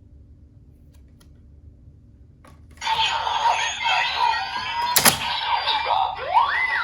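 CSM Decadriver ver.2 toy transformation belt playing its Kiva sound effects. After a faint click, a click about 2.5 s in sets off a dense layer of electronic effects, with a sharp crash about 5 s in and pitch sweeps near the end.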